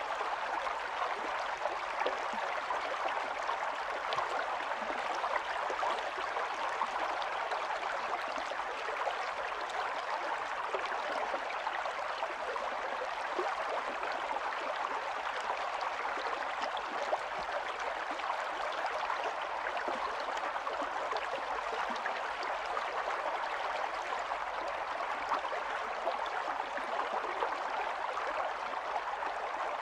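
Small stream running over stones: a steady, unbroken babble and gurgle of flowing water.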